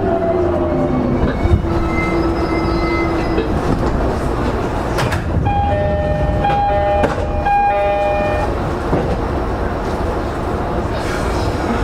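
Running noise inside an E231-0 series commuter train's motor car: traction-motor and inverter whine over wheel and rail rumble. About halfway through, a steady two-pitch horn-like signal sounds for about three seconds.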